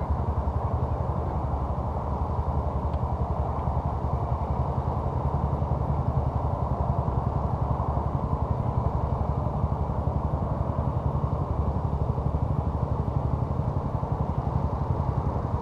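An engine running steadily, a low even rumble that stays level throughout.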